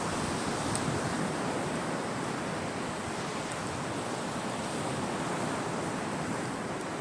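Sea surf washing steadily onto the shore, a continuous rush of water that swells slightly about a second in. A few faint high ticks sound over it.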